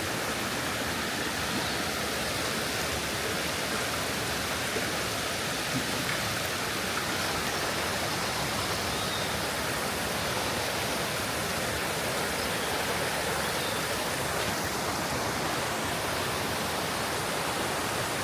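Steady rush of falling water from a waterfall and its stream, an even unbroken noise.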